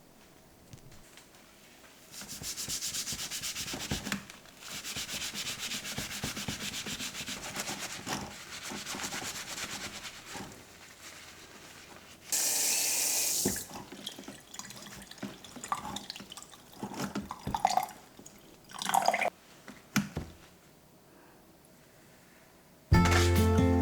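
Brush scrubbing a wet surface in long stretches of quick strokes, then a loud hiss lasting about a second, followed by scattered clatter of handling. Background music starts near the end.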